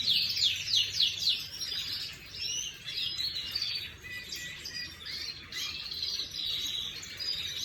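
Domestic canary singing in fast, high trills: a quick run of rapidly repeated notes at the start, then varied shorter phrases with brief pauses.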